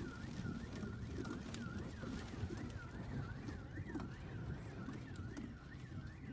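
Car alarm sounding: a high tone that sweeps down and back up about twice a second, steady and repeating, over a low rumbling noise.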